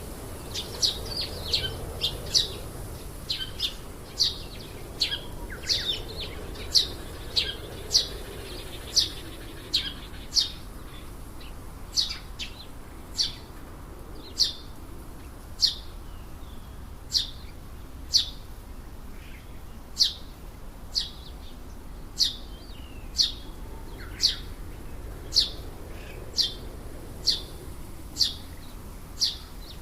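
A bird calling in a garden: a sharp, short chirp repeated about once a second, with quicker overlapping twittering in the first ten seconds or so. A steady low hum of background noise lies underneath.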